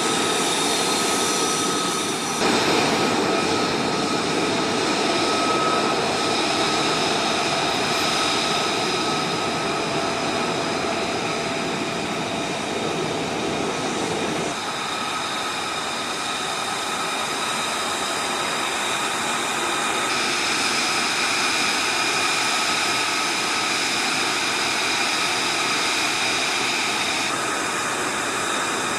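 F-35A Lightning II's Pratt & Whitney F135 jet engine running, a steady high whine over a rushing noise. The sound shifts abruptly several times, as separate clips are cut together.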